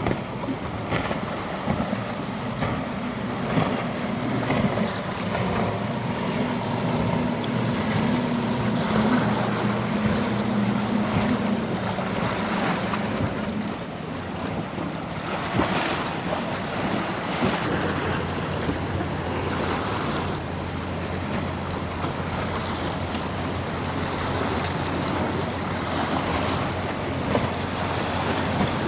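Boat engines running as boats pass through the inlet, heard over surf and wind buffeting the microphone. One engine's hum fades out about halfway through, and another, lower hum comes in a few seconds later and holds steady.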